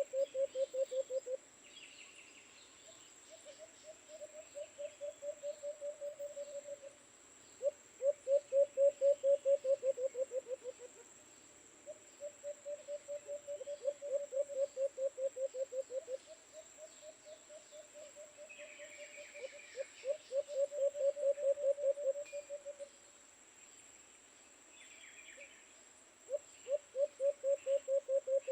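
A low pulsing animal call, about eight pulses a second, repeated in runs of two to four seconds with short gaps, over a steady high insect whine and a few faint higher bird chirps.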